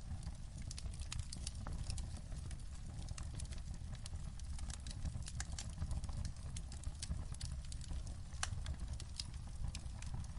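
Wood fire crackling in a fireplace: irregular sharp pops and snaps over a steady low rumble, with one louder pop about eight seconds in.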